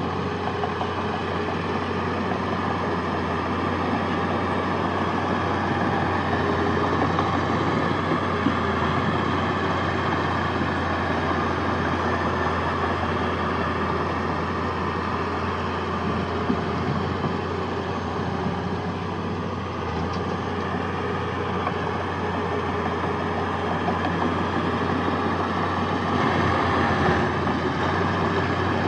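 Heavy diesel engine of an earthmoving machine running steadily at an even speed, with no sharp revving.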